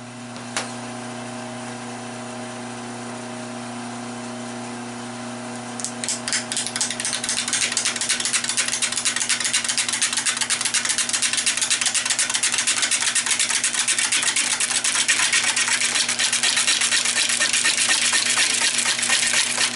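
Wood lathe running with a steady hum while a fatwood bowl blank spins; about six seconds in a turning gouge starts cutting into the wood, giving a loud, rapid, rhythmic scraping that goes on until just before the end. The cut is kept gentle to avoid knocking the bark off the rim.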